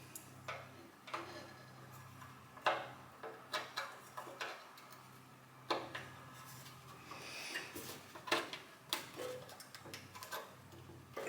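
Irregular light clicks, taps and knocks of hand work with small parts, over a steady low hum.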